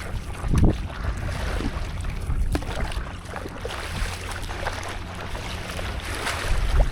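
Sea water lapping and splashing around a stand-up paddleboard, with wind rumbling on the microphone. A few short splashes stand out, the loudest about half a second in and just before the end.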